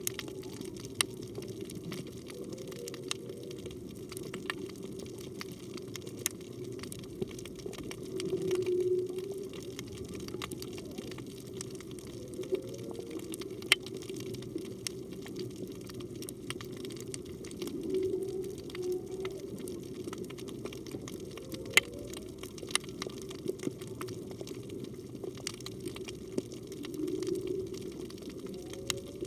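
Humpback whale song heard underwater: low calls recurring about every nine seconds, with higher gliding calls between them. Behind it runs a steady underwater hiss with many scattered sharp clicks.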